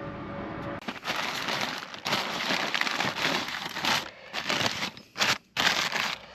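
Takeaway fish-and-chip paper wrapping crinkling and rustling in uneven bursts as it is opened. A low steady hum cuts off about a second in, just before the crinkling starts.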